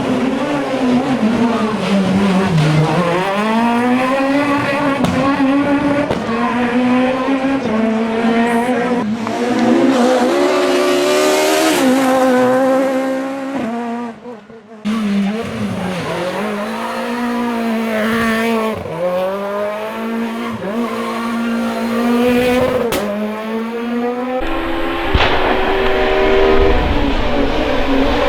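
Super 1600 rally car's high-revving four-cylinder engine being driven hard: the revs climb and fall repeatedly through gear changes and lifts, with tyres squealing. The sound breaks off briefly about halfway through and changes again near the end, as one car gives way to another.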